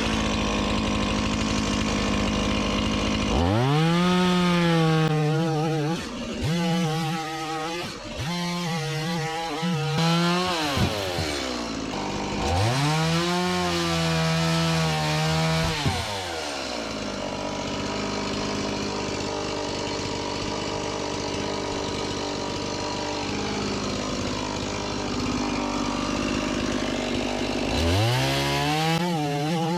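Chainsaw running while it cuts up pieces of a sawn log. The engine revs up and drops back several times, with steadier stretches between.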